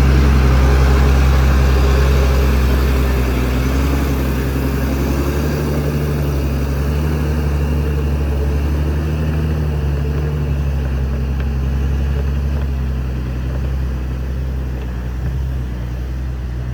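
Heavy diesel engine of earthmoving machinery running steadily with a deep, even hum, easing a little in loudness partway through.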